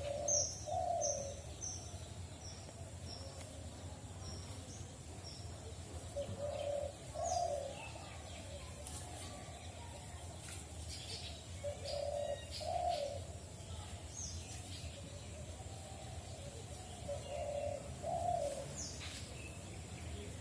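A dove cooing in four short phrases about five seconds apart. A small bird chirps a quick falling series of high notes near the start, with scattered chirps later.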